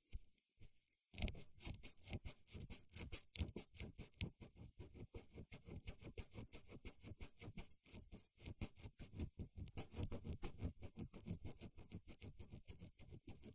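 Close-miked ASMR trigger: rapid, dense crackling taps and scratches on or right at the microphone, starting about a second in after a brief pause.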